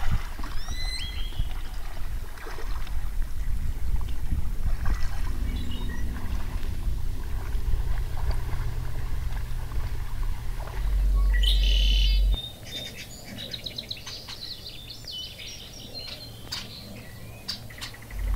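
Birds chirping and singing, with short rising calls at first and a busy run of quick repeated notes in the second half. A steady low rumble is the loudest sound for the first twelve seconds or so, then drops away abruptly, leaving the bird song clearer with a few sharp clicks.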